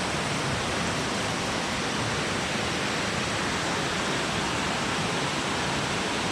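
A waterfall rushing, a loud, steady roar of falling water.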